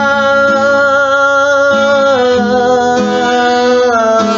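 Ska cover song: one long sung note held over guitar accompaniment, dipping slightly in pitch about two seconds in and rising again near the end.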